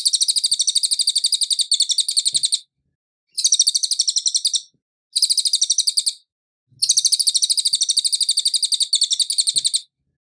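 Cililin bird song: high, rapid trills of evenly repeated notes in four bouts, separated by short pauses, stopping just before the end. It is a clean tutor ('masteran') recording of the bird's natural song, meant for other songbirds to copy.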